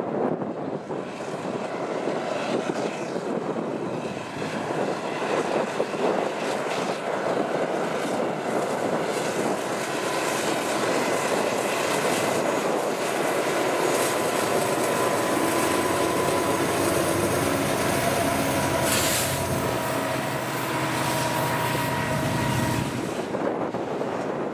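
Diesel locomotives of a freight train, a GE Dash 9-44CW and an EMD SD70ACe, running and passing close by. The engines drone under wheel-on-rail noise, with a steady whine that grows as they come alongside, and a brief sharp noise about 19 seconds in. The deep engine sound drops off near the end as the locomotives move on and the container cars roll past.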